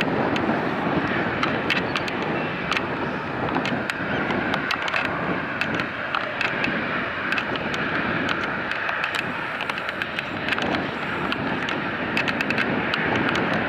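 Boeing 787-8 jet engines roaring steadily as the airliner departs, a crackle of sharp clicks running through the rumble.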